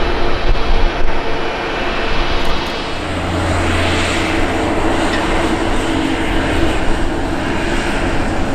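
Fixed-wing airplane engines running loudly as the aircraft passes, a dense rushing noise with a low hum coming in about three seconds in and a hiss swelling around a second later.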